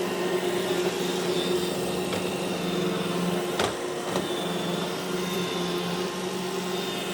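iRobot Roomba e5 robot vacuum running, a steady motor and brush hum with a faint high whine, and a single sharp knock about three and a half seconds in.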